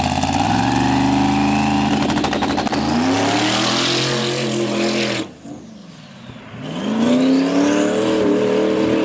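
Twin-turbo big-block drag car's engine accelerating hard, its pitch climbing steadily, with a rising turbo whistle over it. It cuts off abruptly about five seconds in, then another hard acceleration climbs again.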